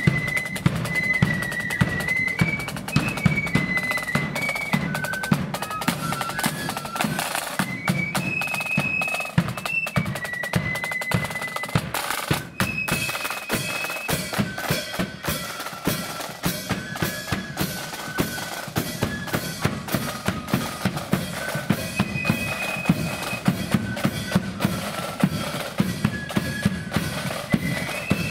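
Marching flute band playing a tune: the flutes carry a single high melody over rapid snare drumming and a bass drum beat.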